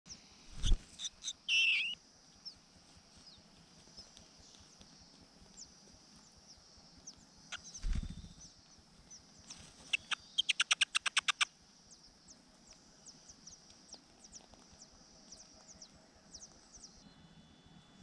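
Large niltava at its ground nest: a rapid run of about a dozen sharp high chirps, about eight a second, in the middle, as the parent feeds the nestlings, typical of nestlings begging. Close thumps and rustles of the adult bird moving at the nest come near the start and again before the chirps, over a steady faint high chirping in the background.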